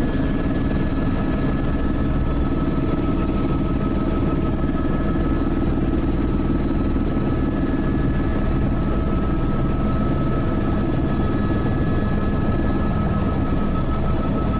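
Helicopter in flight: steady rotor and engine noise, a dense low rumble with a thin, unchanging whine above it.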